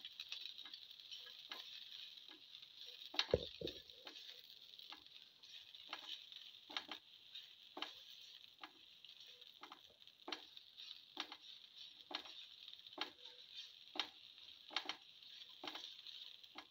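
Shallots and ginger frying gently in a little oil with a soft, steady sizzle, while a spatula stirs them and scrapes and taps against the pan about once a second. There is one louder knock about three seconds in.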